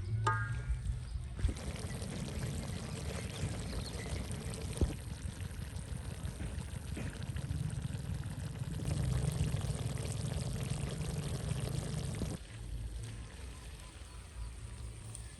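Water pouring in a steady stream for about ten seconds, stopping abruptly near the end.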